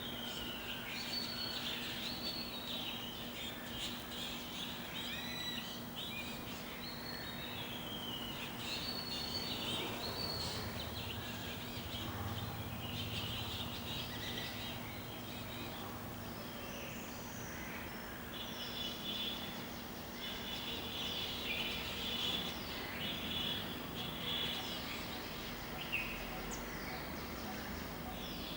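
Birds chirping and calling in a tree: short gliding calls, with a rapid repeated trill in the second half. A faint steady hum sits underneath.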